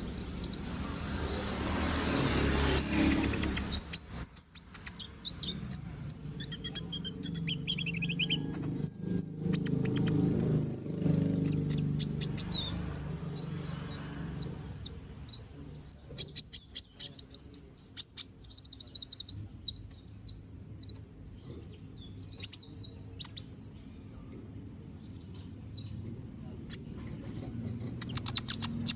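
Kolibri ninja sunbird singing vigorously: rapid, high twittering chirps and trills in quick runs, busiest in the first half, thinning out for several seconds after the middle and picking up again near the end.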